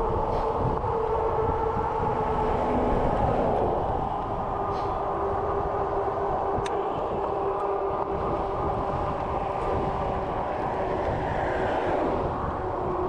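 Steady riding noise of a bicycle on a winter road, heard from a camera mounted on the bike: a rumble of tyres and wind with a steady hum that drops slightly in pitch about three and a half seconds in.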